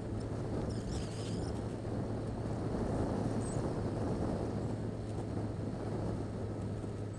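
Yamaha XJ6 Diversion's 600 cc inline-four running steadily at cruising speed, heard from the rider's position with wind rush over the microphone.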